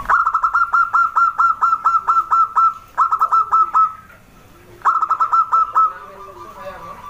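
Zebra dove (perkutut) calling: three runs of quick, evenly spaced short notes, a long run of about a dozen, then two shorter runs of about five, with short pauses between.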